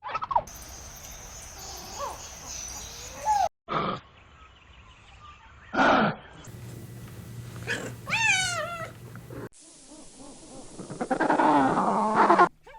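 A run of different farm-animal calls from separately cut clips: several short loud cries, a long wavering call about eight seconds in, and a rough, busy stretch of calling near the end.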